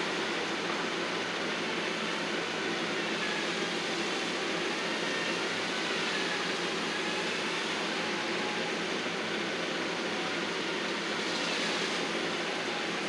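Engine of landscaping equipment running steadily, an even continuous drone that does not change.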